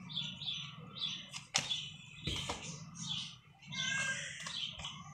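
Small birds chirping over and over in the background, with a short pitched call about four seconds in. Two sharp clicks come about a second and a half and two seconds in.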